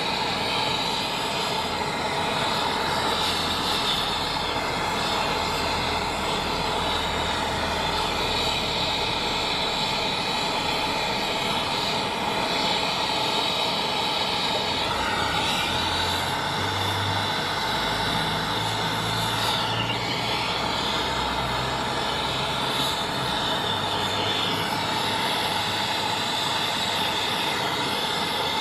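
Brazing torch burning steadily with a continuous hiss while copper refrigerant line is sweated into a heat pump's fittings.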